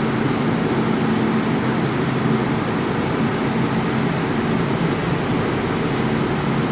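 MTR K-Train electric multiple unit running, heard from inside the passenger car: a steady rumble and rush of noise with a constant low hum.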